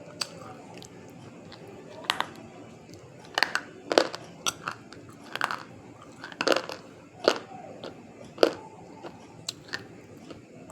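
A person biting and chewing something hard and brittle, close to the microphone: about a dozen sharp, separate crunches, most of them from about two seconds in.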